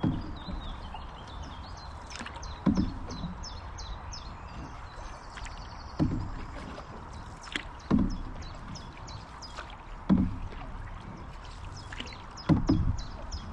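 Canoe paddle strokes dipping and pulling through the river water, about six strokes two to three seconds apart, over a steady wash of background noise.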